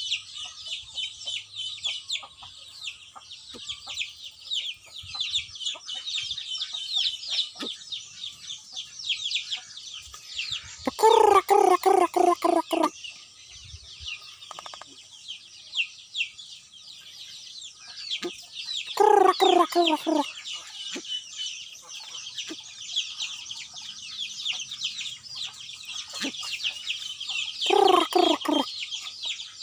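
Bird calls: three loud bursts of quick repeated notes, each lasting a second or two, over constant high-pitched chirping.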